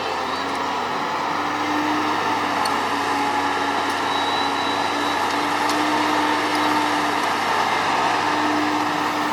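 Hitachi excavator's diesel engine running steadily under work, a continuous hum whose pitch lifts slightly now and then.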